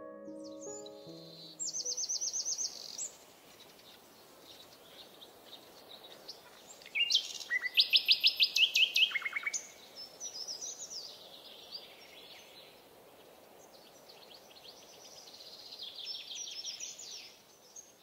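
Birds singing: rapid trills of high, quickly repeated notes, one near two seconds in, a louder run of about a dozen notes stepping down in pitch from about seven to nine seconds in, and another toward the end, over a faint steady hiss.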